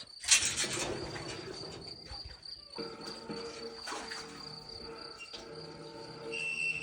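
Insects trilling: a steady high-pitched tone, with a brief rustle or splash just after the start.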